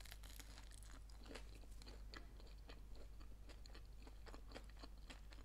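A bite into a grill-toasted sandwich, then chewing with many faint, irregular crunches and crackles from the toasted bread.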